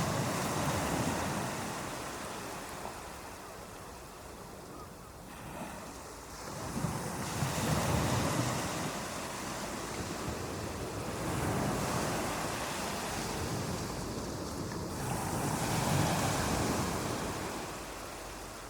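Ocean waves washing up the shore in slow surges, each swell rising and fading over a few seconds, about four times.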